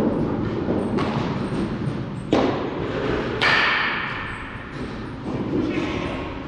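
Baseball practice impacts: three sharp hits about a second apart, each followed by a short ring.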